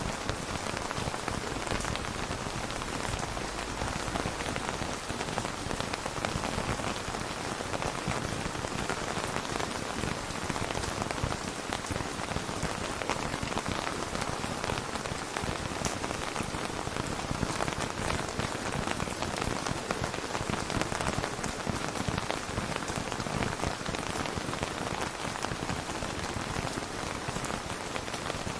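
Steady rain falling, a dense, even patter of drops on a surface.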